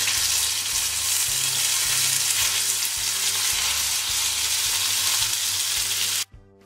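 Tomato slices sizzling in hot oil in a frying pan as they are laid in one by one, a steady dense sizzle. It cuts off abruptly near the end, leaving faint music.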